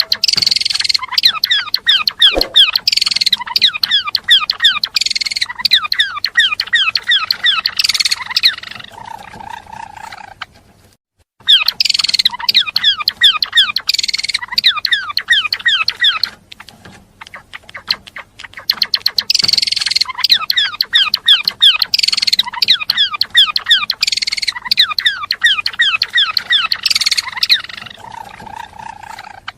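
Gelatik belong songbird singing non-stop: long bursts of rapid high chirps and trills, twice broken by pauses of a couple of seconds.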